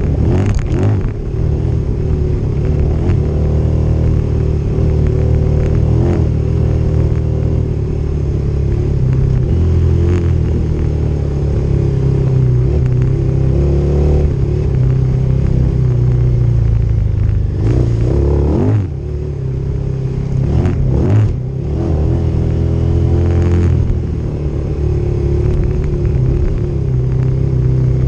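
Motorcycle engine running under way, its pitch rising and falling with the throttle. Twice, about two-thirds of the way through, the engine note drops off briefly and picks up again.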